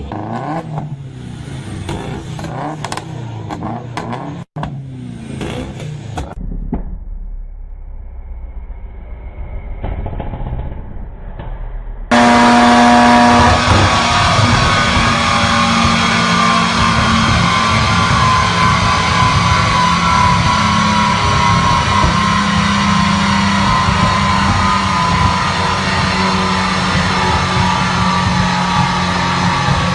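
Supercar engines revving and running at high revs. About twelve seconds in the sound switches abruptly to a louder, steady engine note.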